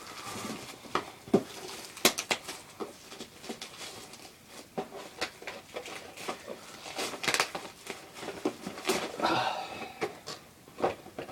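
Cardboard box of a plastic model kit being opened and its contents handled: a run of scattered clicks, taps and rustles, with a denser stretch of rustling near the end.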